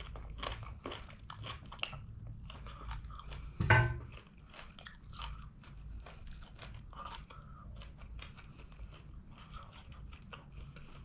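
Close-miked chewing and biting of chicken and rice eaten by hand, with crunchy bites and many small wet clicks of the mouth. One short, louder throat sound just under four seconds in.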